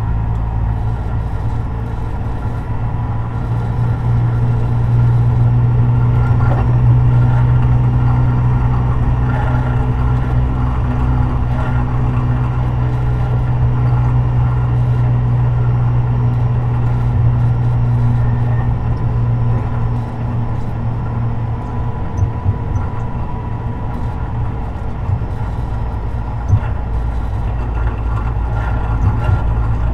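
Tobu 50090 series electric multiple unit running between stations, heard from near the car's underfloor. A steady low rumble of wheels on rail comes with a steady motor hum; it grows louder a few seconds in and then holds. A few short clicks come in the second half.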